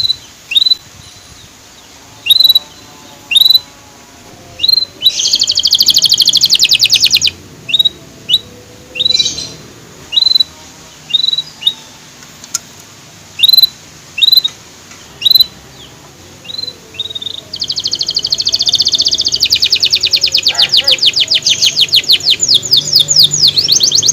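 Canary singing: short rising 'cuit' chirps repeated about once a second, broken by long, fast trills, one about five seconds in and a longer one from about two-thirds of the way through.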